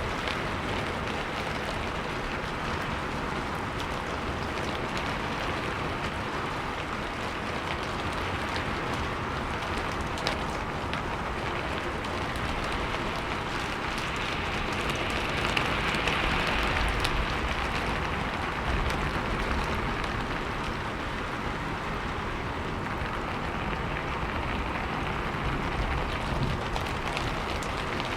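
Steady rain falling, a dense even patter of drops that grows a little louder for a few seconds past the middle.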